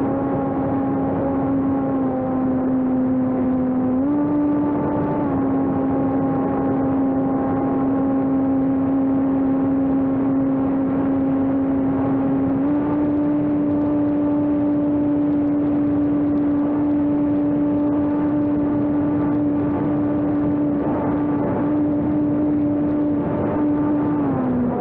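Electric radio-control airplane's brushless motor and propeller running steadily in flight, a continuous drone. Its pitch steps down slightly about two seconds in, up about four seconds in, down again a second later, up about thirteen seconds in, and drops near the end.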